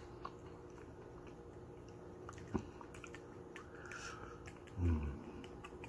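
Faint chewing of dill pickle chips, with scattered small mouth clicks, then a short low vocal sound about five seconds in.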